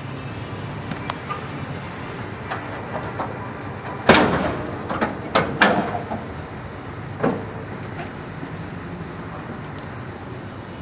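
Hood of a 1969 Chevrolet Camaro being unlatched and raised: a loud metallic clank about four seconds in, then a quick run of sharp clicks and knocks, and one more knock a couple of seconds later.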